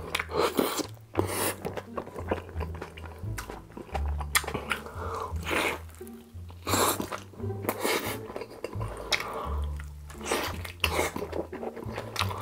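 A man biting into and chewing fried, cheese-topped food, with short crunchy chewing noises again and again, over background music with a low bass line.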